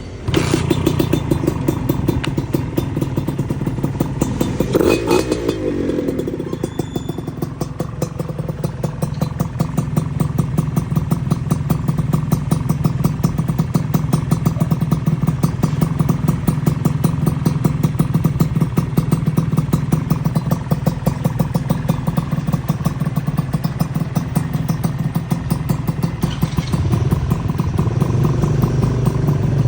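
Honda Nova RS 110 two-stroke motorcycle engine, fitted with a Tyga aluminium-can aftermarket exhaust, starting at once and idling with a fast, even exhaust beat. The engine is revved briefly about five seconds in and again near the end.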